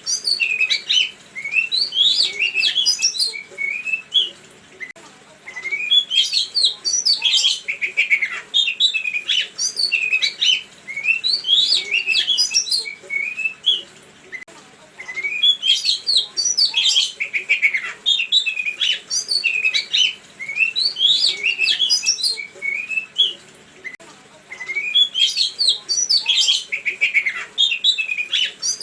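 A songbird singing bouts of rapid, varied chirps and short whistles, each bout lasting a few seconds and broken by brief pauses of about a second.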